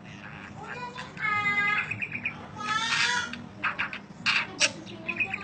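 Parakeets chattering: quick high chirps, with two louder, longer harsh squawks about a second in and around three seconds in.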